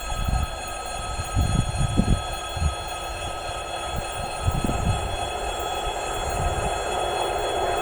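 EP1 electric passenger locomotive and its train approaching on the rails, the rumble growing steadily louder toward the end, with several low thumps of wind on the microphone.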